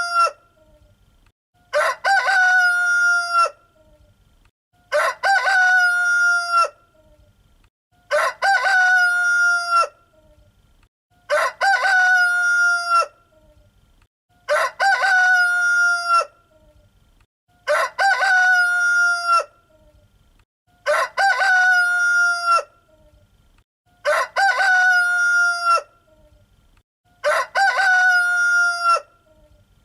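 Rooster crowing cock-a-doodle-doo, about nine crows evenly spaced roughly every three seconds, each the same long call ending in a held note.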